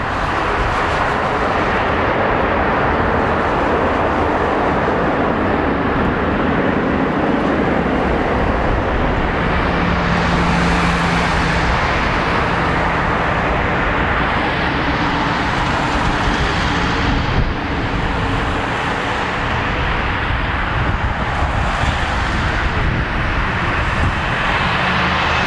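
Jet engines of a Boeing 787-9 airliner landing, a steady loud rumble that swells twice partway through, as on touchdown and rollout.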